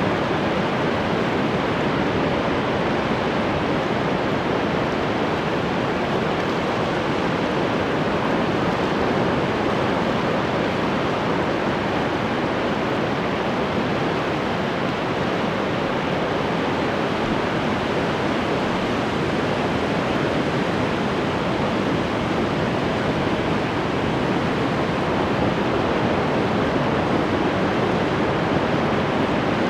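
Ocean surf: a continuous, steady wash of breaking waves with no distinct single crashes.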